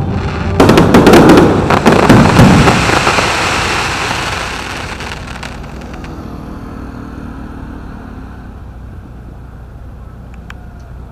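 Aerial fireworks: a dense volley of bangs and crackling that lasts about five seconds, then fades away, leaving a low steady background noise.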